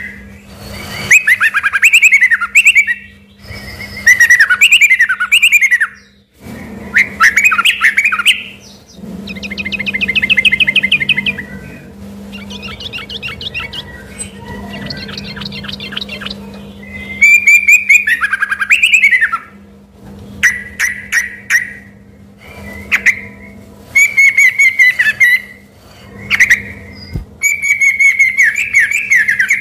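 Trucukan (yellow-vented bulbul) singing loudly and continuously in full 'gacor' form: quick bubbly whistled phrases repeated every second or two, with a run of fast buzzy trills in the middle. Its song includes mimicked white-rumped shama (murai batu) phrases.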